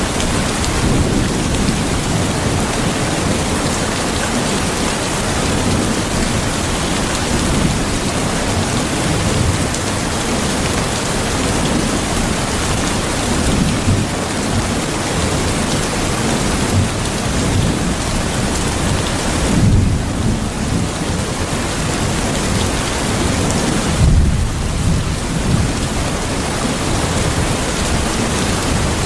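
Steady rain with low rolling thunder underneath; the thunder swells twice, about two-thirds of the way through and again a few seconds later.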